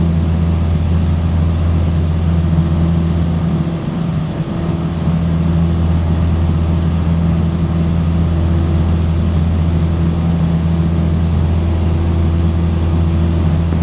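Piper Cherokee's piston engine and propeller droning steadily at cruise power, heard from inside the cabin, with a brief slight dip about four seconds in.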